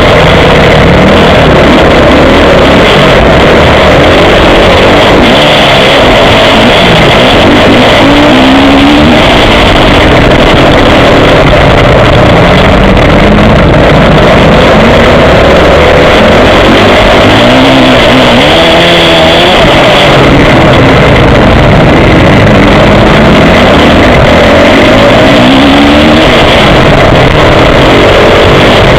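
Motocross bike engine heard close up from an onboard action camera, revving up and down repeatedly as the rider works the throttle through the gears. It is very loud and pinned at full level throughout.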